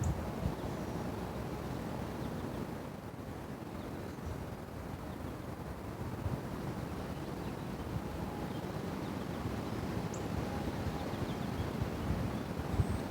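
Wind noise on the microphone, steady throughout, with a few faint, short, high chirps in the second half.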